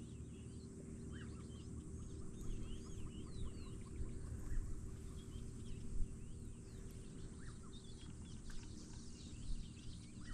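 Birds chirping and calling in many short, quick notes throughout, over a faint steady low hum.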